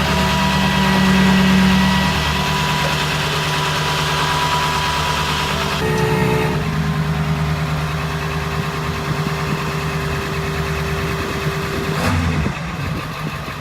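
A vehicle engine running steadily, with an even hum; the sound changes abruptly about six seconds in and again near the end.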